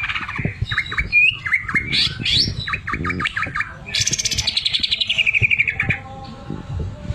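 Cucak ijo (green leafbird) singing a loud, varied song of whistles and chatters. About four seconds in it gives a fast, even rattle that slides downward for about two seconds, typical of the 'mesin jahit' (sewing machine) phrase that keepers prize in this bird.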